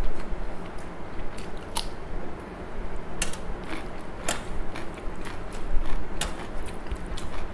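Close-up chewing of crunchy raw cucumber: irregular wet crunches and clicks from the mouth, a few per second at most, with louder crunches about two, three, four and six seconds in.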